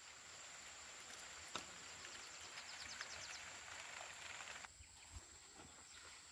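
Quiet outdoor countryside sound: a steady hiss of light rain with a thin high continuous whine, both dropping away abruptly about four and a half seconds in, and a brief rapid run of small chirps near the middle.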